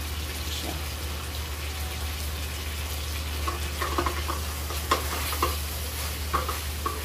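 Chicken pieces sizzling in a stainless steel wok over a gas burner. From about halfway through, a wooden spatula stirs them, with short scraping and knocking strokes against the pan.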